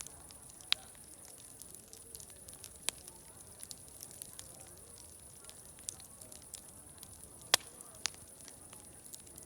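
Wood fire crackling: a steady hiss with many small ticks and a few sharp pops, the loudest about two-thirds of the way through.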